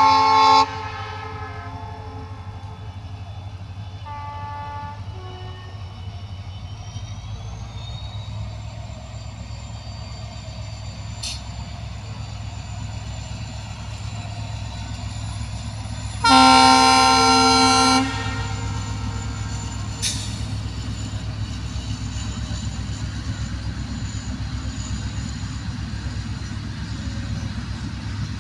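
Indian Railways locomotive horn sounding in blasts over the steady rumble of a passing train: a loud blast cutting off just under a second in, a fainter short one around four seconds, and a loud two-second blast near sixteen seconds in. After the last blast the train runs on with a steady rattle.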